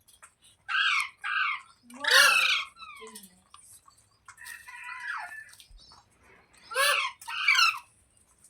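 Green Indian ringneck parrot giving harsh screeching calls in quick pairs: two about a second in, a longer one around two seconds, and two more near the end, with softer chattering in between.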